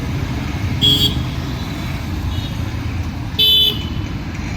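Busy road traffic running, with two short vehicle horn honks, one about a second in and another at about three and a half seconds.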